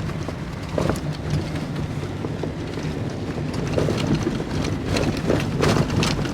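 Car tyres on a snow-covered road, heard from inside the cabin: a steady low rumble with scattered crackles and crunches of snow and slush, busiest near the end.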